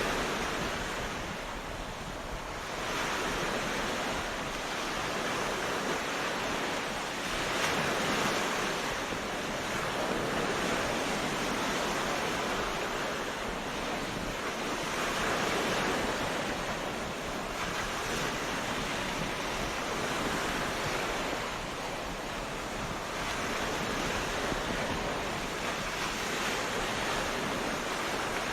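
Ocean waves breaking on a beach: continuous surf that swells and ebbs every few seconds.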